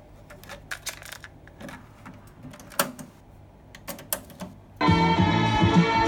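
A run of mechanical clicks and clunks from a TEAC V-3010 cassette deck's buttons and cassette mechanism being operated. Then, near the end, music starts playing from the tape.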